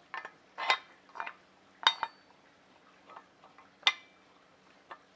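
Metal parts of a miter saw stand clinking and knocking as the work support mounting bracket is handled and fitted: a string of irregular knocks, some with a brief metallic ring, the sharpest about two and four seconds in.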